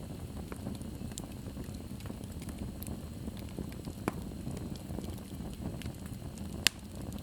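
Fire burning in a fireplace: a steady low rush of flames with many small crackles, and one sharp, louder pop near the end.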